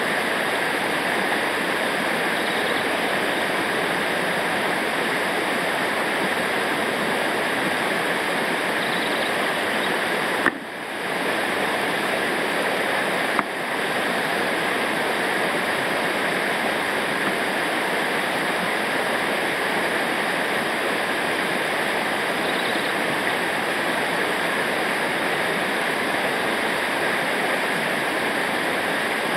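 Steady rushing of river rapids or a waterfall, an even roar of falling water. It drops out briefly twice, about ten and thirteen seconds in.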